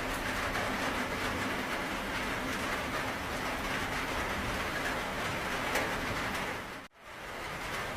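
Steady heavy rain, a dense even hiss. About seven seconds in it drops sharply almost to silence and fades back up, like a loop joint in the recording.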